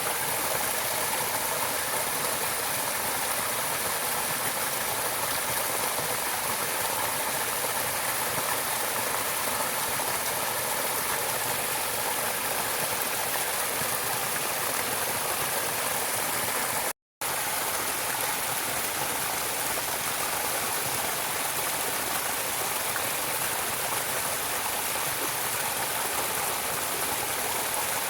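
Steady rushing water, like a stream or heavy rain, with an even hiss. It drops out completely for a split second about two-thirds of the way through, then carries on unchanged.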